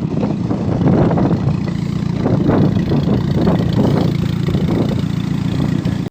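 Vehicle engine running steadily, with an uneven rumble, cutting off suddenly at the end.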